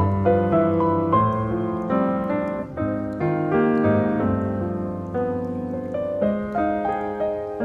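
Background piano music: a calm melody with chords, notes struck and held in a slow flowing run.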